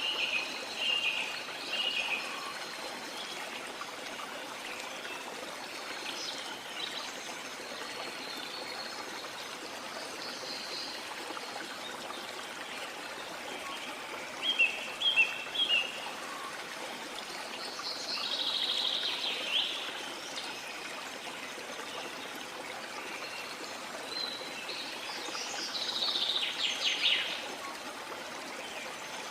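Steady rush of a waterfall with tropical rainforest birds calling over it now and then: short calls near the start, three quick calls about halfway through, and longer calls later on.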